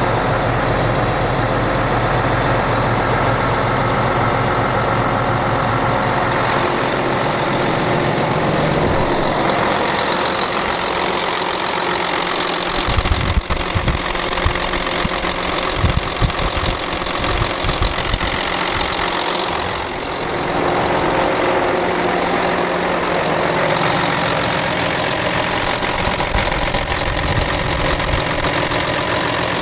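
Volvo D12 inline-six diesel of a semi truck idling steadily after a cold start, left running to charge its batteries. Irregular low thumps come through in the middle.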